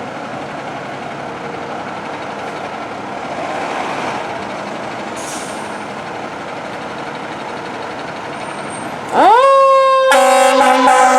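Fire engine's mechanical Q siren winding up: a fast rising pitch that levels off into a steady wail, after about nine seconds of steady traffic noise. About a second later the truck's air horns blast in a loud multi-tone chord over it.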